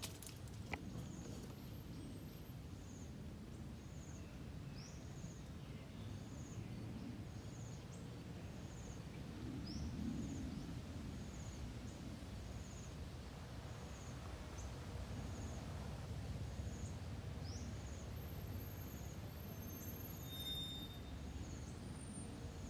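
Outdoor ambience: a steady low rumble with a short, high chirp repeating about once a second, and a few brief bird chirps over it.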